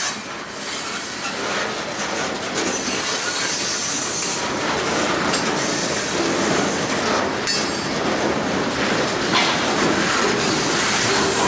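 Freight cars rolling past: steel wheels clattering over the rails, with high-pitched wheel squeal coming and going.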